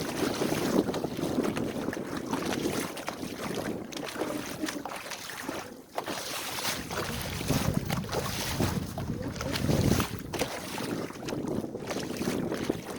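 Wind buffeting the microphone and water rushing along the hull of a small sailboat under sail, rising and falling in gusts with a brief lull about halfway through.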